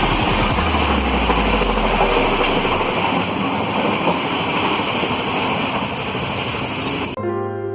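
Steady rushing noise of a moving passenger train, with a deep rumble that fades after a couple of seconds. It cuts off suddenly near the end, where soft piano music begins.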